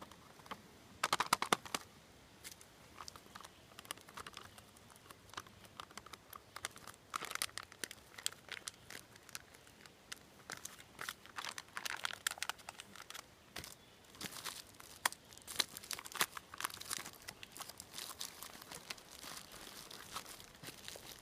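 Crinkling and crackling of a foil-lined Mountain House freeze-dried meal pouch being handled, in irregular bursts of sharp crackles, the loudest about a second in.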